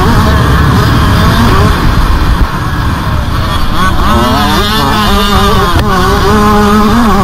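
Motocross bike engine heard from on board, running hard at high revs; it backs off briefly about two and a half seconds in, then the revs rise and fall as the throttle is worked.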